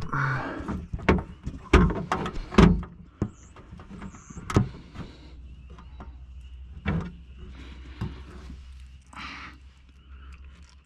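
Knocks and clanks of a power window motor being worked into place inside a car door, several sharp ones in the first three seconds and a few more spaced out after.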